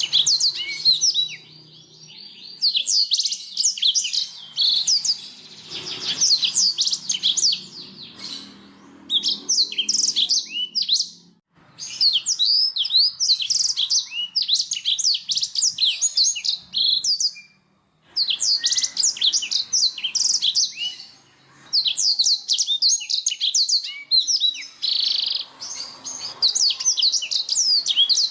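Canary singing: long runs of fast, high trills and chirps in phrases a second or two long, separated by short breaks.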